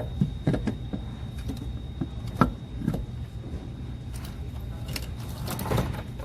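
A vehicle engine running with a steady low hum, with irregular clicks and knocks scattered over it, the sharpest about two and a half seconds in.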